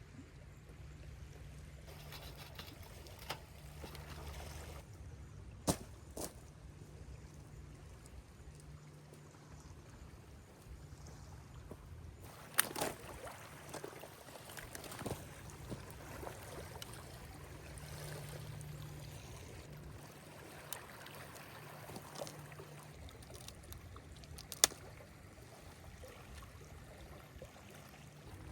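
Quiet lakeside ambience with faint trickling, lapping water, broken by scattered sharp clicks and taps; the loudest click comes near the end.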